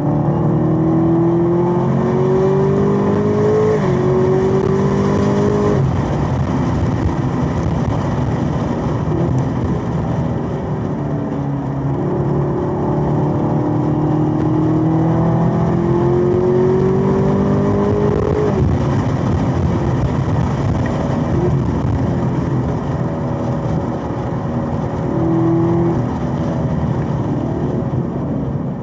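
Chevrolet Camaro ZL1 1LE's supercharged 6.2-litre V8 pulling hard on track. The engine note climbs steadily in pitch under acceleration and drops off sharply at gear changes and lifts for the corners, several times over.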